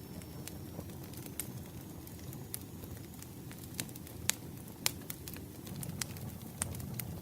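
Campfire burning: a steady low rumble with irregular sharp crackles and pops, the loudest two about four and five seconds in.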